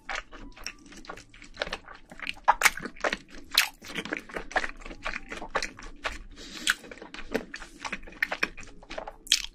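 Close-up chewing and biting of food, a dense, irregular run of short crisp clicks and crunches.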